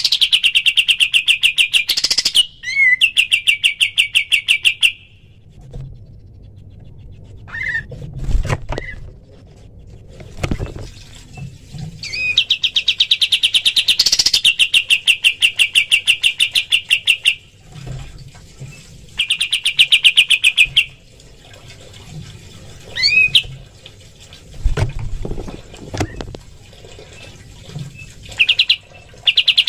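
Kapas tembak bulbul singing its rapid 'tembakan' song, a fast run of evenly repeated high notes, about ten a second. It sings in several bouts of two to five seconds with pauses between them. A few dull thumps fall in the gaps.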